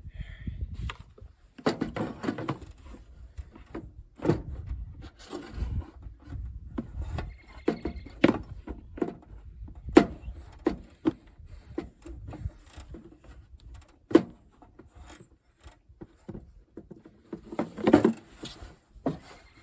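Irregular clanks, clicks and rattles of hand tools and metal parts being handled on a riding mower, with a couple of busier bursts of clatter and a few short squeaks.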